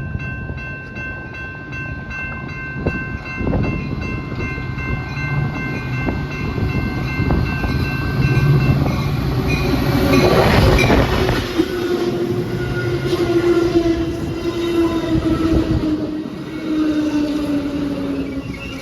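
Metra commuter train arriving: a sustained multi-tone horn chord sounds for the first half, then the train passes loudly, peaking about halfway through, followed by a whine that slowly falls in pitch as the train slows.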